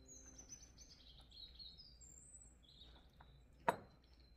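Small birds chirping faintly in a run of quick, falling chirps, with one sharp click near the end.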